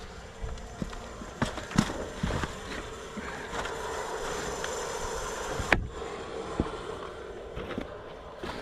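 Water running out of an outdoor wood furnace's drain valve to lower an overfilled water level, cut off abruptly with a click near the middle, with scattered knocks from handling. A faint steady hum runs underneath.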